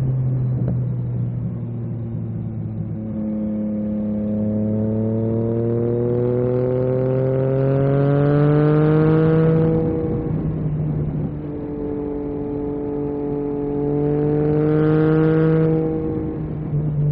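Yamaha MT-09 SP's three-cylinder engine through an Akrapovic carbon exhaust, accelerating hard through the gears. A long pull rises steadily in pitch and ends in an upshift about ten seconds in. A shorter pull follows and ends in another shift near the end.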